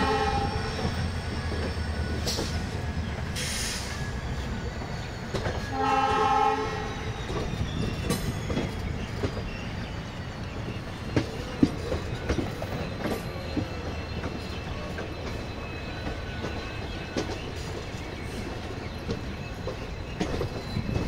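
Passenger train running along the track, heard from aboard with a steady rumble and wheels clicking over rail joints. A train horn gives a short blast at the start and another, under a second long, about six seconds in.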